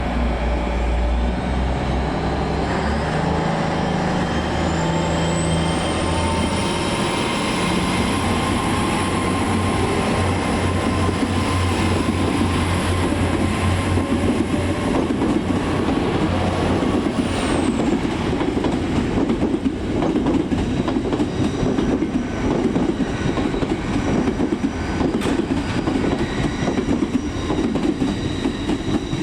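Hitachi Class 800 bi-mode train pulling away under diesel power: its underfloor engines rev up, a high whine climbs in pitch over the first several seconds, holds, then drops away about eighteen seconds in. The wheels then clatter steadily over the rail joints as the coaches roll past.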